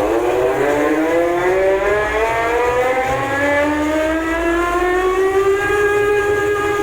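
A siren-like tone played through a large DJ speaker stack. It climbs slowly in pitch for about five seconds and then holds, over a low bass rumble.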